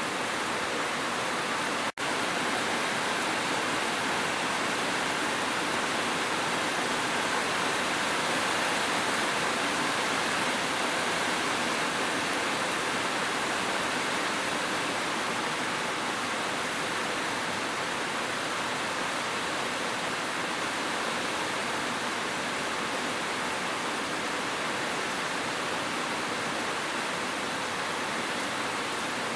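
Steady, even hiss of falling water, like heavy rain, cutting out for an instant about two seconds in.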